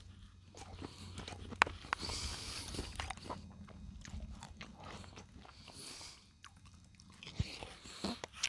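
A person chewing and eating food close to the microphone, with small scattered clicks and smacks of the mouth.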